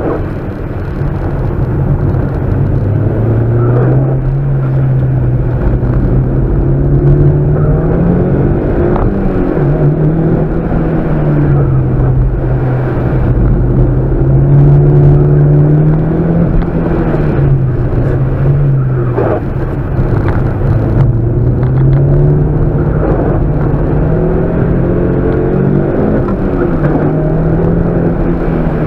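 Mitsubishi Lancer Evolution's turbocharged four-cylinder engine heard from inside the cabin while the car is driven around a track, its revs rising and falling again and again through the corners.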